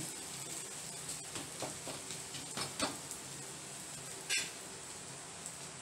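Faint, steady sizzling of semolina chilas frying in a little oil on two griddles, with a few light clicks, the clearest about four seconds in.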